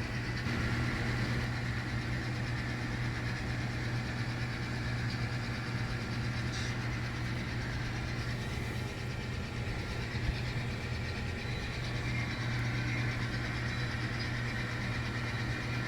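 Model train sound system playing a diesel locomotive engine idling steadily, a low even rumble played through speakers.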